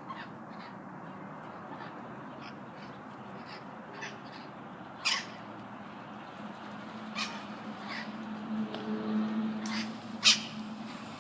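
A flock of parrots giving short, harsh calls at scattered moments, the loudest about five seconds in and again near the end. A low steady hum rises in the background through the second half.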